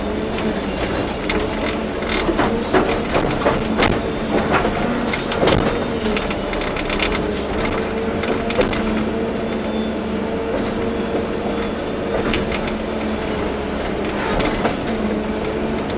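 Volvo EC240B excavator at work: its diesel engine runs steadily under load, with repeated clanks and knocks from the bucket and linkage.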